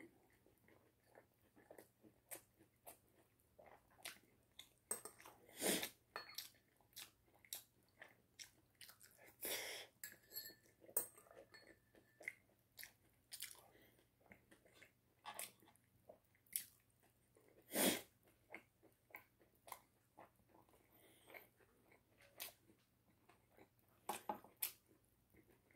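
A person biting and chewing chicken: irregular small clicks and crunches, with louder crunchy bites about six, ten, eighteen and twenty-four seconds in.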